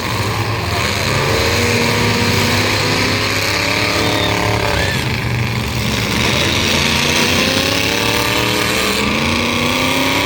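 Demolition derby trucks' engines running hard and revving, their pitch rising and falling again and again over a constant loud din.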